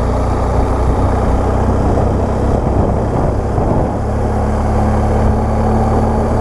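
Heavy wind rumble on the microphone with a motorcycle engine running underneath, likely the BMW R1200GS Adventure's boxer twin. A steady engine hum becomes clearer about four seconds in.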